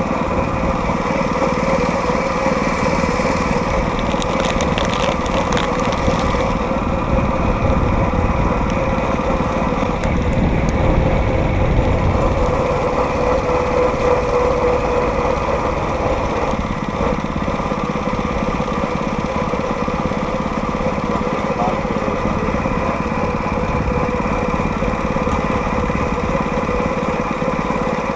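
Small gasoline engine of a homemade motorized rail cart running steadily under way, with a steady whine over a low rumble.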